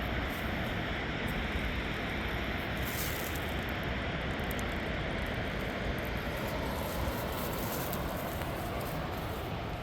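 Steady drone of distant vehicle traffic, an even hum that neither rises nor falls.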